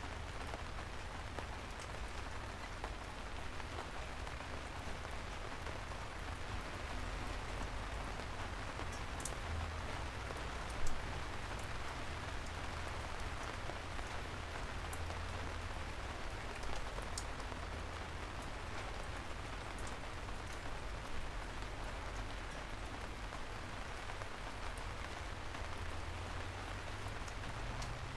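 Steady rain falling on a surface, an even hiss with scattered sharp drop ticks and a low rumble underneath; one drop lands louder about eleven seconds in.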